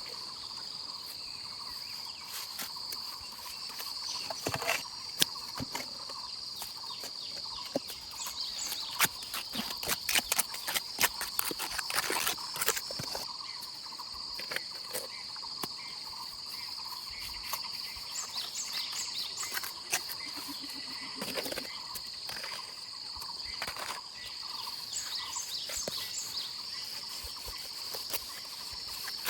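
A steady, high-pitched chorus of insects such as crickets runs throughout, with short higher chirps now and then. Through the first half, a run of sharp clicks and knocks rises above it.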